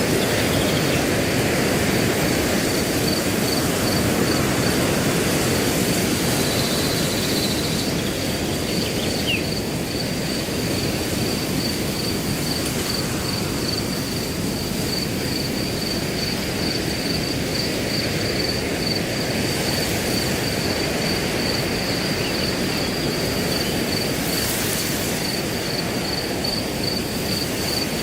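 Wind blowing through grass in a steady low rush, with a cricket chirping in an even, unbroken string of high pulses over it.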